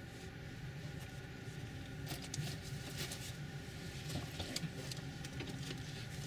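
A freight train of tank cars and boxcars rolling past on the next track, heard muffled from inside a stopped passenger car as a steady low hum. Irregular clicking and rattling runs from about two seconds in to about five seconds.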